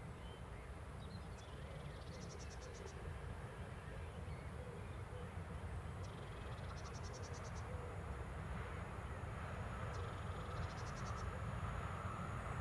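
Railpool class 187 electric locomotive with its container freight train approaching: a low rumble that grows slowly louder, with a faint steady whine coming in near the end. Three short, rapid high trills sound over it.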